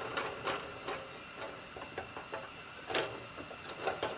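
Small metallic clicks and knocks of forge blower parts being handled during reassembly, as the fan and washers are worked into position on the shaft. The sharpest knock comes about three seconds in, with two more near the end.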